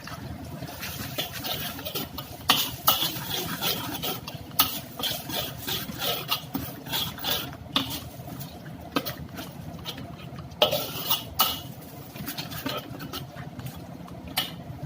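A metal utensil clinking and scraping in a cooking pot, irregular clatters several times a second with pauses, over a steady low hum.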